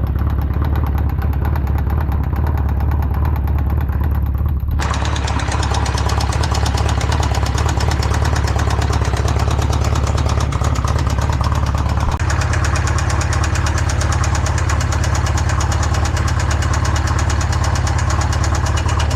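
Polaris RZR engine running steadily with a fast, even beat. It is running on Lucas oil after its rod seized to the crank, an engine the owner calls already blown up. About five seconds in the sound turns brighter and harsher.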